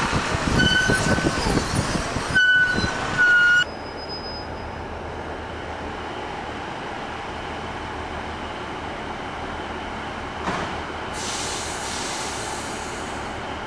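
Street traffic with two high-pitched squeals, cut off abruptly about three and a half seconds in. Then comes the steady rumble of a train in motion heard from on board, and near the end a diesel multiple unit, a Class 150 Sprinter, standing at a platform with a rising hiss of air.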